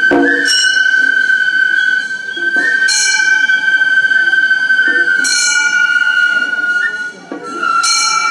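Gion-bayashi festival music: a high bamboo flute holds a long note while small bronze hand gongs (kane) are struck every two to three seconds, ringing briefly. The flute breaks off for a moment near the end and comes back a little lower.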